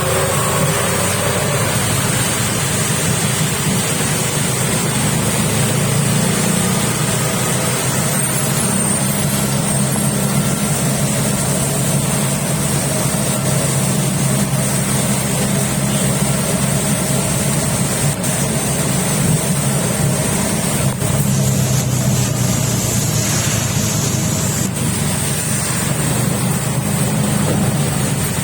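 Heavy rain falling in a steady hiss, with a vehicle engine running steadily underneath.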